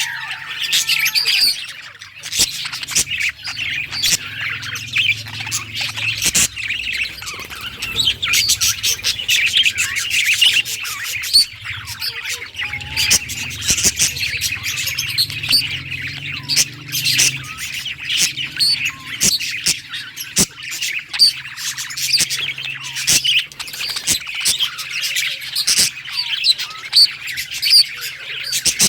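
Budgies (budgerigars) chattering and warbling together, with a steady stream of fast chirps, squawks and short clicks.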